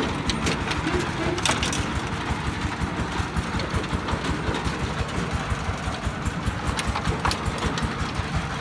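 A công nông farm vehicle's D22 single-cylinder diesel engine running steadily.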